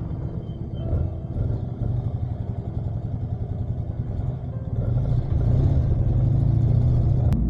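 Motorcycle engine running while riding, a rough steady drone that grows louder about five seconds in.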